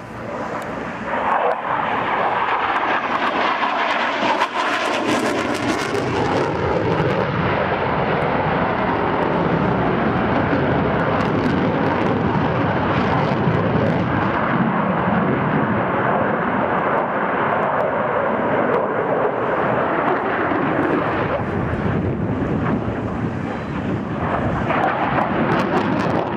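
F-16 fighter jet engine noise from a close pass, loud and continuous. It swells about a second in, and its pitch sweeps over the first several seconds as the jet goes by.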